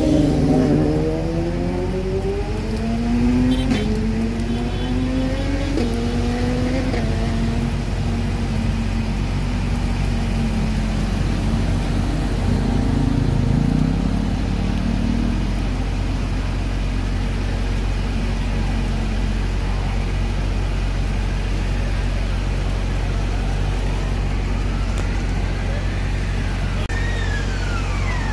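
Fire engine's motor pulling away. Its pitch climbs and drops back with each gear change during the first few seconds, and then it runs on at a steady drone.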